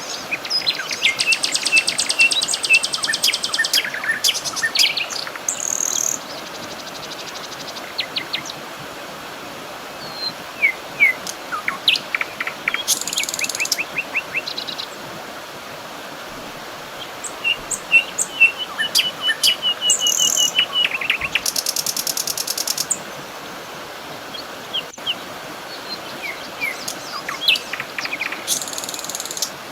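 Several birds singing and calling: fast trills, rapid runs of repeated notes and short chirps, one after another, over a steady background hiss.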